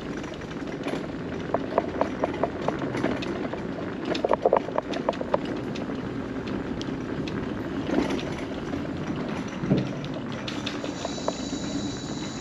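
Electric mobility scooter rolling along a wooden boardwalk: a steady running noise with irregular clacks as the wheels cross the planks.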